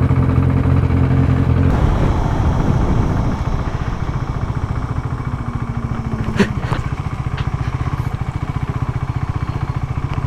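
Single-cylinder engine of a KTM RC sport motorcycle held at steady revs, then the throttle closes about two seconds in and the engine drops to an even, low idle as the bike rolls slowly. A short click sounds about midway.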